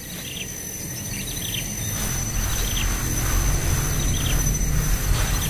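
Small bird giving short, falling chirps about once a second, over a steady high-pitched insect whine and a low rumble that grows louder.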